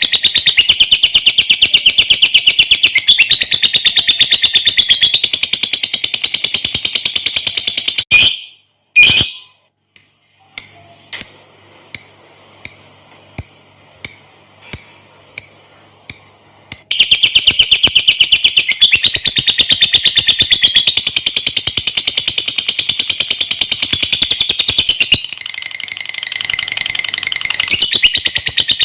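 Lovebird giving its long, very fast chattering trill ('ngekek'), high-pitched. About eight seconds in it breaks off into a string of separate sharp chirps, roughly two a second, then the rapid chatter resumes.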